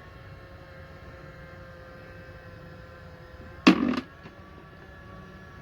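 A single loud, short clunk about three and a half seconds in, over a faint steady hum.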